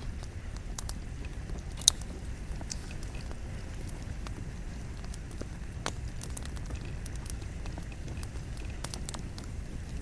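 Wood campfire burning: a steady low rumble of flames with scattered sharp crackles and pops of the burning logs, the loudest pop about two seconds in.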